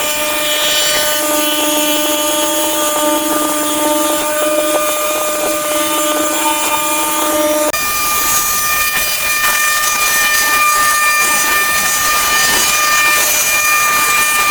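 A motor-driven power tool running steadily with a constant hum. About halfway through it cuts abruptly to a higher-pitched steady whine with hiss.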